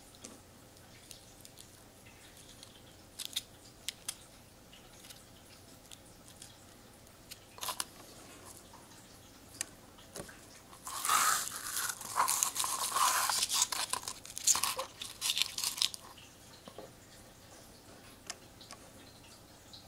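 Empty paper wasp nest of dry papery material crunching and tearing as it is cut and pulled apart: scattered small cracks, then a dense run of crunching and tearing about eleven seconds in that lasts about five seconds.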